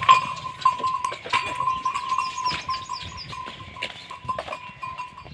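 Farm animals calling, amid frequent sharp clinks and knocks.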